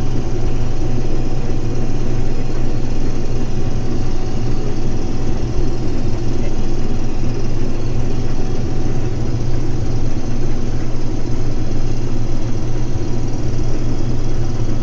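Case IH 2388 combine running steadily while harvesting wheat: a constant low drone of engine and threshing machinery, with no change in pitch or load.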